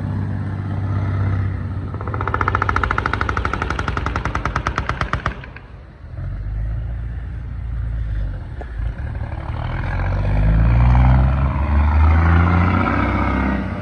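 Heavy truck engine pulling away, with a rapid staccato rattle for about three seconds early in the pull-off, then the low engine note rising and falling as it gathers speed.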